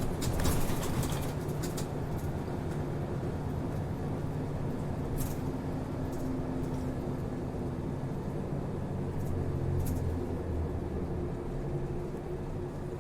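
A route bus's diesel engine and drivetrain drone steadily, heard from inside the passenger cabin as it drives between stops, with a few short rattles and clicks. The engine note strengthens a little about ten seconds in and eases off near the end.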